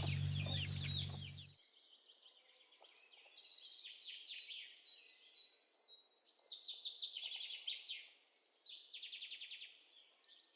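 Birds chirping with quick high calls and fast rapid trills, some strokes rising and falling. A low steady hum underneath stops abruptly about a second and a half in.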